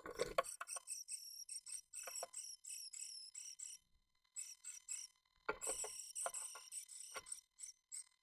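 Japanese tit moving about inside a wooden nest box: quick, high-pitched scratchy rustling broken by a few louder knocks, the loudest right at the start and a cluster about five and a half seconds in. A faint steady electrical whine from the box camera runs underneath.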